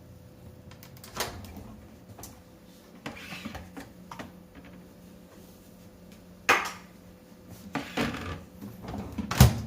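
Scattered light knocks and clatter of household objects being handled, with a louder knock about two thirds of the way through and another near the end, over a faint steady hum.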